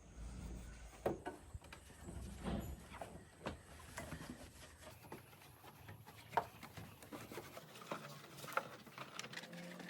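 Faint, irregular light knocks and taps, spaced unevenly about a second apart, over a low rumble in the first few seconds.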